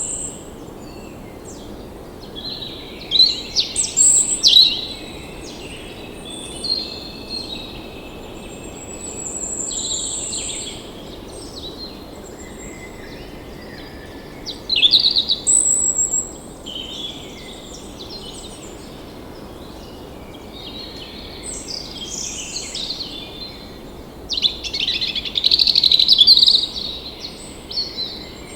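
Several songbirds singing and calling over a steady background hiss: repeated high trills and chirps, with louder bursts of song about three to five seconds in, about fifteen seconds in, and near the end.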